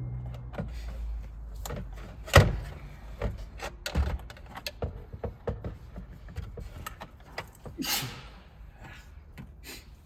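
Scattered knocks, clicks and rustling of hard plastic interior parts being handled and fitted in a pickup's cab, with one sharp knock about two and a half seconds in and a longer scraping swish near eight seconds.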